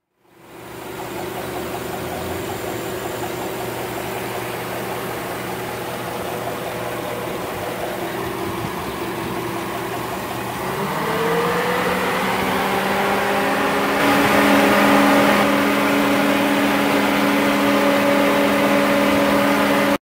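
2008 Chevy Suburban's V8 engine running at idle, heard with the hood open. About halfway through, the engine speed rises smoothly and holds steady at a higher speed, a little louder.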